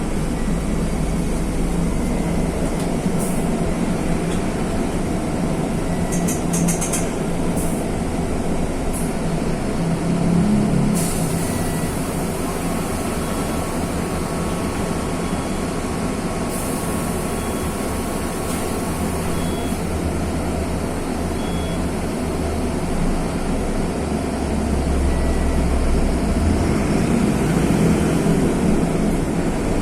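Mercedes-Benz OF-1519 city bus's OM-924 LA four-cylinder turbodiesel running steadily, heard from inside the bus. Two short air hisses come in the middle, and the engine grows louder near the end.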